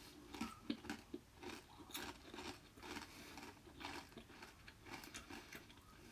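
Faint, irregular crunching and scraping of a digging tool working into damp garden soil, several strokes a second.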